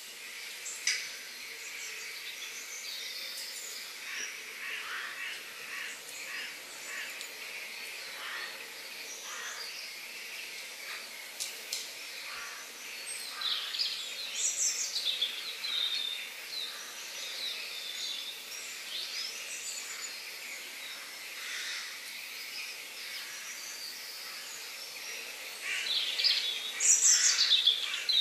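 Birds chirping and calling over a steady background hiss, with short calls throughout and louder bursts of calls about halfway through and near the end.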